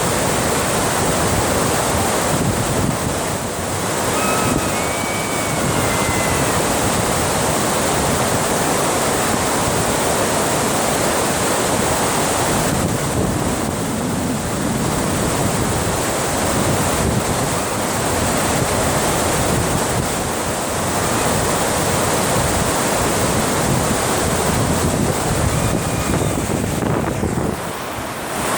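Dam water rushing in a steady, continuous wash, with wind buffeting the microphone.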